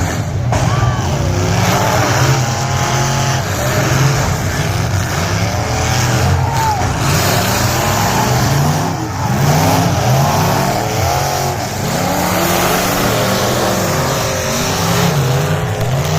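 Race car engines repeatedly revving up and dropping back, several at once, in a figure 8 race.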